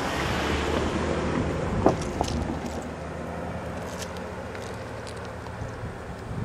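Freight train moving slowly along the track: a steady low rumble that fades slightly, with one sharp metallic knock about two seconds in and light clicks from the wheels and cars.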